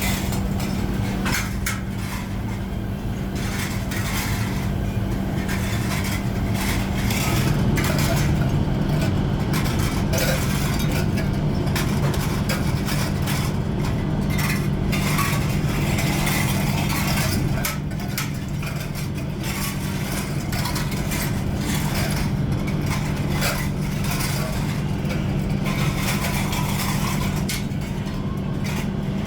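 Steady hum of a workshop machine motor, with irregular light clinks and taps of metal on metal over it.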